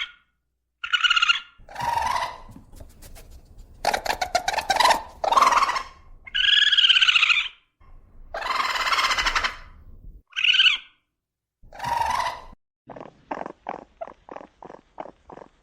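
Raccoon calls: a run of separate high-pitched cries, some clear and wavering, others harsh and screechy, with short silences between them. About thirteen seconds in they give way to a quick series of short chirring pulses, about three a second.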